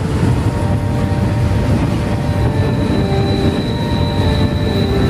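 Loaded double-stack intermodal freight cars rolling steadily past, a continuous rumble of steel wheels on rail. A thin, high, steady squeal joins about three seconds in.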